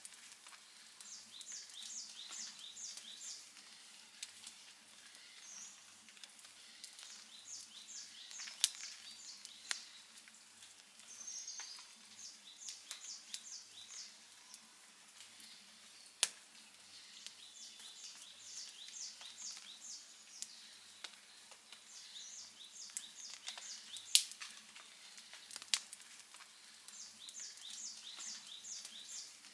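Outdoor wood campfire crackling softly, with a few sharp pops, the loudest near the end. A short high, rapid chirping run repeats every few seconds.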